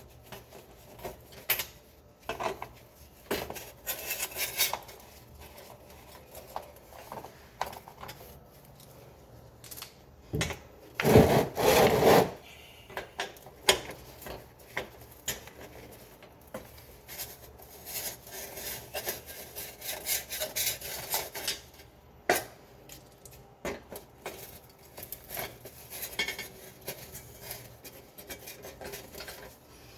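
Intermittent scraping, rubbing and clicking of a screwdriver and a plastic under-engine splash shield as its Phillips head screws are taken out. There is a louder burst of rubbing about 11 seconds in, a longer run of scraping later, and a sharp click about 22 seconds in.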